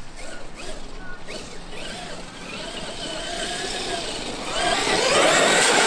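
Traxxas X-Maxx RC monster truck driving, its brushless electric motor and drivetrain whining, rising and falling in pitch with the throttle. It gets much louder about four and a half seconds in.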